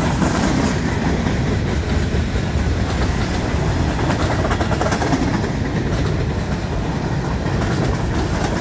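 Freight cars rolling past close by on steel wheels: a steady, loud rumble with scattered light clicks from the wheels on the rail.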